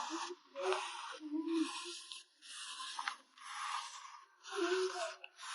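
Packing materials for photocards being handled: rubbing and scraping in a run of separate strokes, about one a second, with faint crinkling.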